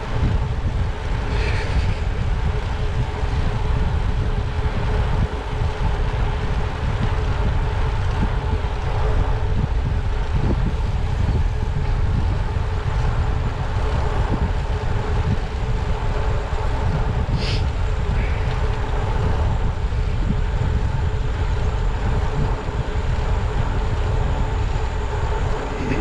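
Wind buffeting the microphone of a camera riding on a moving bicycle, a steady low rumble with a faint even hum underneath. Two brief high-pitched blips, one about a second in and one a little past the middle.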